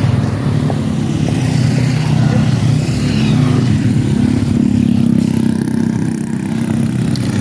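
A motor engine running steadily, a loud low hum that holds an even pitch.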